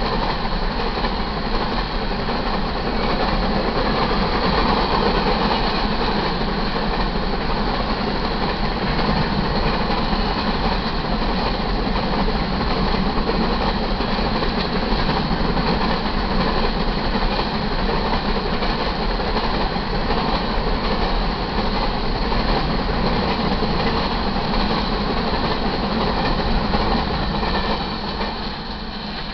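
Covered hopper cars of a BNSF grain train rolling past, a steady clatter of steel wheels on the rails that fades as the last car goes by near the end.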